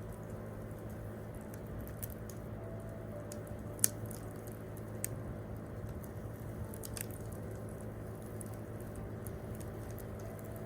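Wood fire crackling, with scattered sharp pops from the burning wood, the loudest one about four seconds in.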